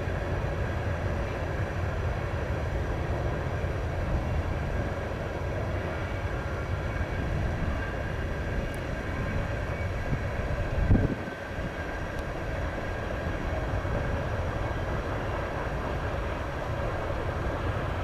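Freight train cars rolling past: a steady rumble of steel wheels on rail, with a faint steady high tone. A brief low thump comes about eleven seconds in.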